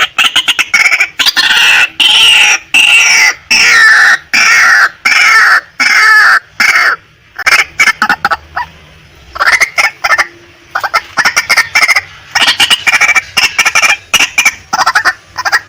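Female white-breasted waterhen calling: loud, fast runs of repeated clucking notes in bouts, with short breaks about halfway through and again a few seconds later.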